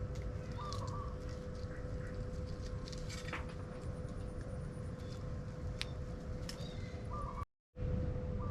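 Birds being fed, giving a few short calls over a steady low rumble and a faint steady hum. The sound cuts out completely for a moment about seven and a half seconds in.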